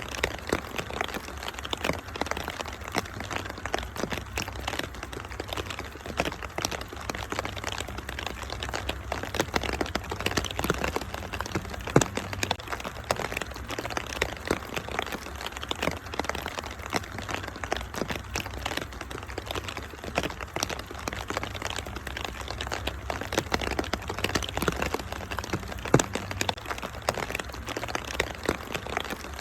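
Wood fire crackling in a fireplace: dense small crackles and snaps over a steady hiss, with two sharper, louder pops, about twelve seconds in and again near the end.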